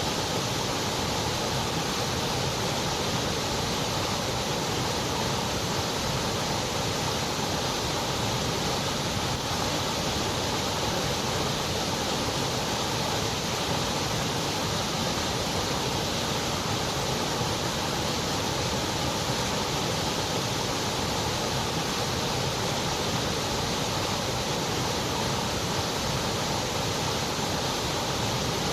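Continuous white noise: a steady, even hiss that never changes, softer in the highest treble.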